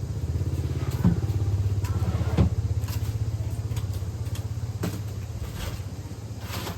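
Small motorcycle engine running steadily, with a couple of sharp knocks about one and two and a half seconds in.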